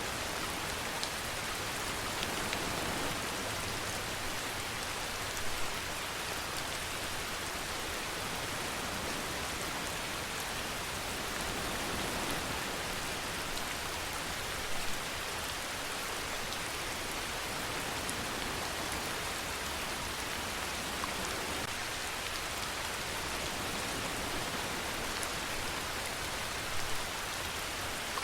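Steady rainfall: a dense, even hiss of rain falling on a surface, with a few louder individual drop hits about 5, 15 and 27 seconds in.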